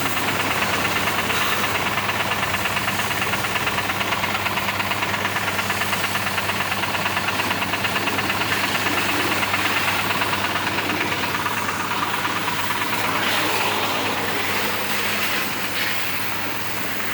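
High-pressure car-wash washer running steadily, its motor and piston pump humming with a fast, even pulsing under the hiss of the spray.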